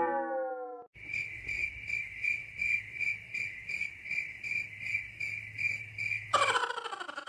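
Cricket chirping in a steady, even pulse of about three chirps a second, starting about a second in. A falling pitched tone dies away at the very start, and a short sliding pitched sound cuts in near the end.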